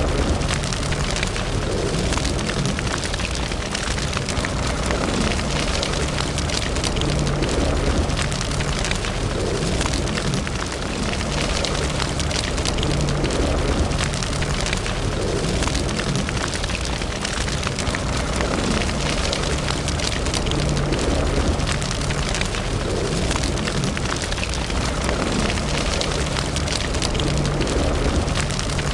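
Wood fire in a fireplace crackling steadily: many small, irregular pops and snaps over a low rumbling hiss of the flames.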